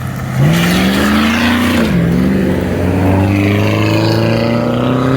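Car engine under hard acceleration: the revs climb quickly, drop sharply at a gear change about two seconds in, then climb again in the next gear. The sound is loud.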